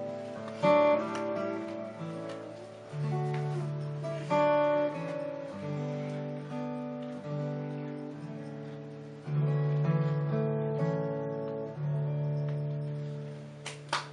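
Solo acoustic guitar playing an instrumental piece: picked melody notes ring out over a held bass line. Clapping breaks out right at the end as the piece finishes.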